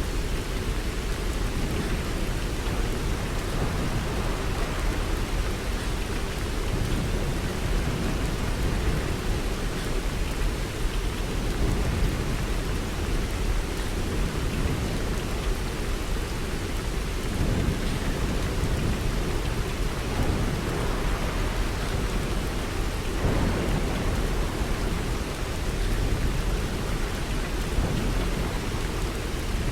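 Steady rain falling, an even hiss of drops with a continuous low rumble beneath it that swells and fades slightly.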